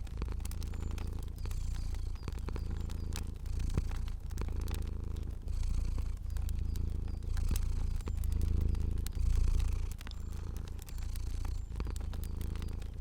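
Domestic cat purring steadily, the low purr swelling and dipping about once a second with each breath. Sharp crackles and pops of a fire sound over it.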